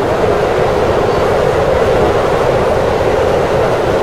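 Keikyu electric commuter train running steadily at speed, heard from inside the front cab: a continuous noise of wheels on rail and running gear.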